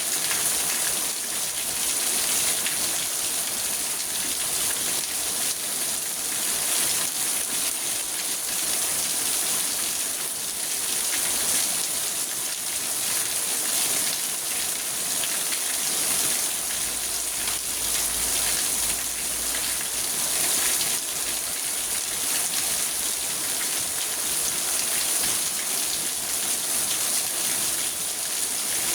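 Steady heavy rain drumming on a car's roof and windows, heard from inside the car as a dense, even hiss.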